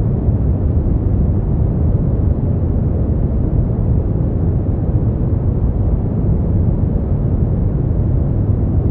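Steady brown noise: an even, deep rumbling hiss, strongest in the bass and falling away towards the treble, with no changes.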